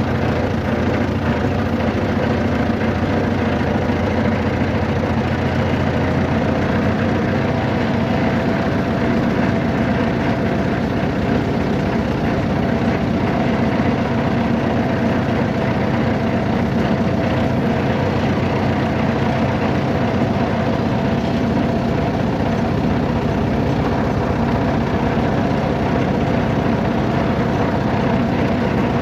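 A vehicle's engine running steadily, a constant low hum with a faint steady whine above it.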